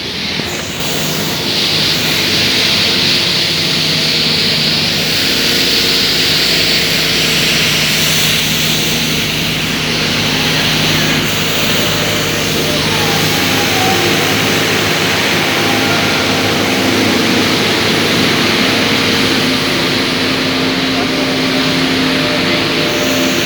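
VBZ Tram 2000 tram running along the track: a steady motor hum under a broad rushing wheel-on-rail noise. It builds up over the first second or two, then holds steady.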